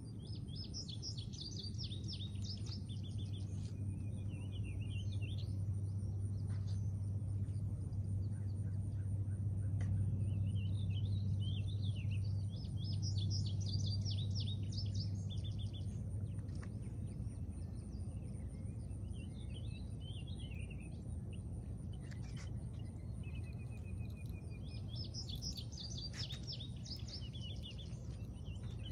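A bird singing in bouts of rapid, high, chattering notes, three main phrases roughly twelve seconds apart with softer twitters between, over a steady low hum that swells in the middle.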